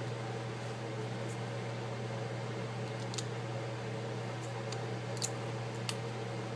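A steady low hum with a handful of faint, light clicks and ticks as adhesive tape is peeled off a cable inside an opened iPad.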